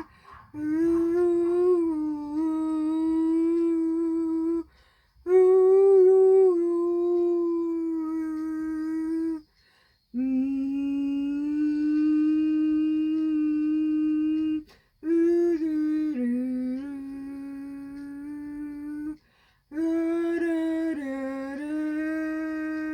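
A cappella voice singing long wordless held notes, five in a row of about four seconds each with short breaks for breath between, the pitch mostly steady with small steps at the start of some notes.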